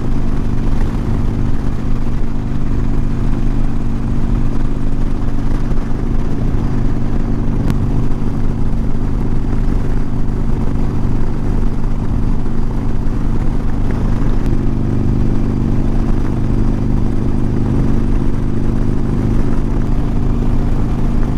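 Harley-Davidson Sportster's air-cooled V-twin running at steady highway cruising speed. It holds a nearly constant note, with a slight shift about two-thirds of the way through. Wind rush is mixed in, heard from a lav mic inside the rider's helmet.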